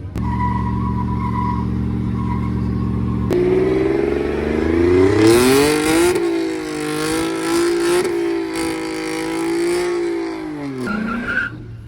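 Vehicle engine idling, then revving up about three seconds in and held at high revs for several seconds over a hiss of spinning tyres, as in a burnout. The revs drop back near the end.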